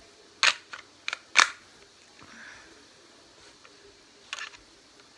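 A few sharp plastic clicks from handling a CO2 airsoft pistol: a cluster of clicks in the first second and a half, then one more short click about four seconds later.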